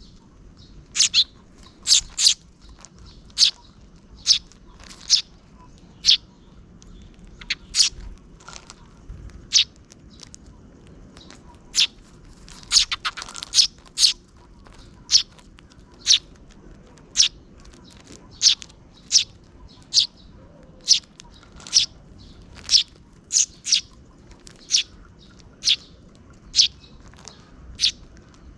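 Sparrows chirping: single short, sharp chirps about once a second, with a quick flurry of chirps about 13 seconds in.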